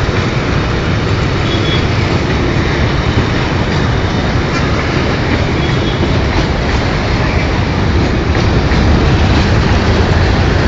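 Freight train rolling past, a loud, steady rumble of wagons on the track.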